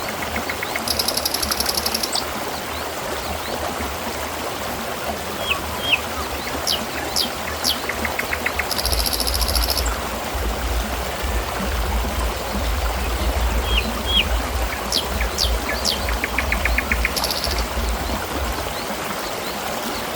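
Water trickling and splashing steadily, with short high chirps and fast trills over it, the same pattern of calls coming back about every eight seconds. A low hum comes and goes underneath.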